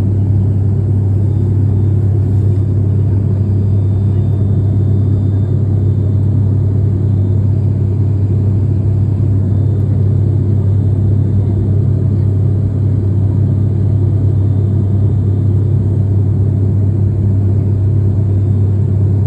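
Steady low rumble of a vehicle on the move, an even drone that does not change.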